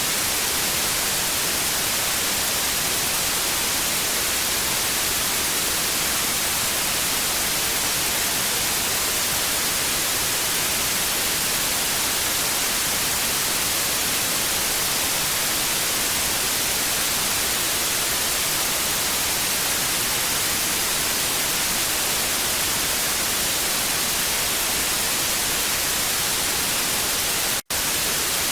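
Television static: a steady, even hiss, brightest in the upper frequencies, that cuts out for an instant near the end.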